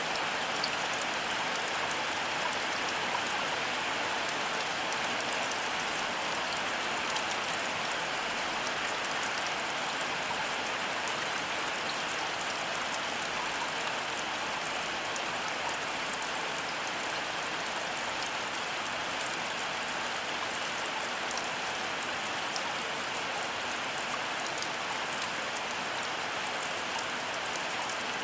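Heavy rain falling steadily, a dense patter of drops with no thunder.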